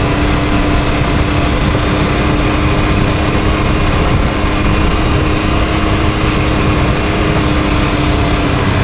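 Can-Am Maverick X3 side-by-side engine running steadily while driving, a loud even drone with a constant pitched hum over it.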